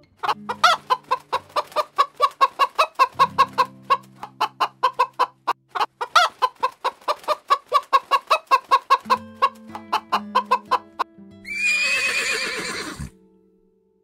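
Hens clucking in a fast, even run of about five clucks a second, over soft background music. Near the end comes a louder, harsh animal call of about a second and a half, falling in pitch at its close.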